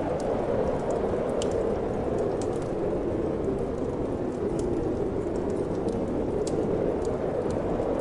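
Steady rushing of wind with the scattered sharp pops and crackles of a wood fire burning in a fireplace.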